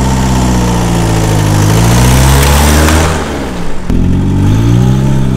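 Car engine pulling away and accelerating, its pitch rising and falling, then cutting briefly just before four seconds in and climbing again as the car picks up speed.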